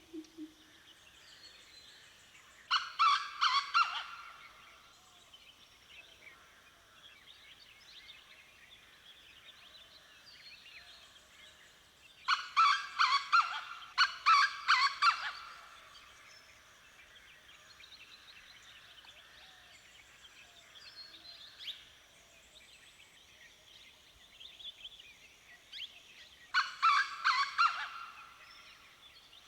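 Dawn chorus of many birds, with thin chirps and whistles running throughout. Three times it is broken by a loud burst of rapid repeated call notes: once a few seconds in, once at length around the middle, and once near the end.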